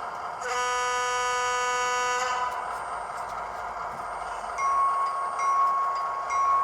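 Recorded diesel locomotive sounds from an ESU model-railroad sound decoder, played through a small Bluetooth speaker: the engine idling steadily, a horn blast of nearly two seconds starting about half a second in, then the bell ringing from about four and a half seconds in, roughly one stroke a second.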